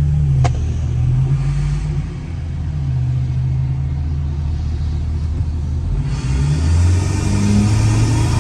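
Lifted diesel pickup's engine running under way, a low rumble whose pitch drifts up and down. About six seconds in it gets louder and hissier as the truck accelerates. A single sharp click about half a second in.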